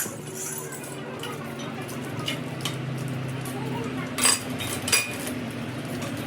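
Metal parts or tools clinking twice, sharply, about a second apart in the second half, over a steady low hum.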